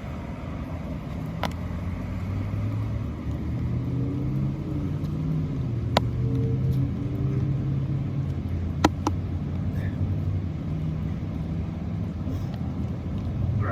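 A motor vehicle's engine running, a steady low hum whose pitch shifts and rises for a few seconds midway, with a few sharp clicks on top.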